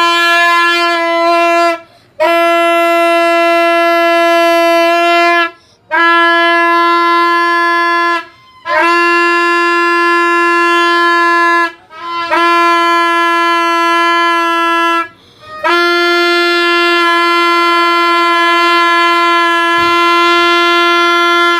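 A horn sounding one loud, unchanging note in six long blasts with short breaks between them, the last held about six seconds.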